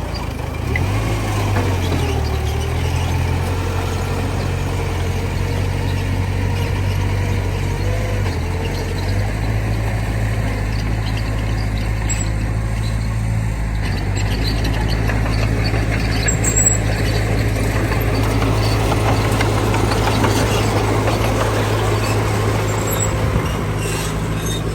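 Heavy diesel engines of a dump truck and bulldozer running steadily, with a whining tone that wavers up and down over the first several seconds.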